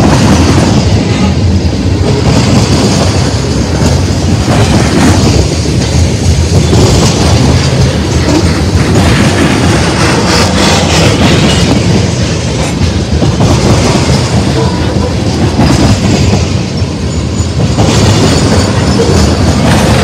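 Freight train tank cars rolling past close by: a loud, steady rumble of steel wheels on rail, with wheels clacking over a rail joint and louder, hissier surges every few seconds.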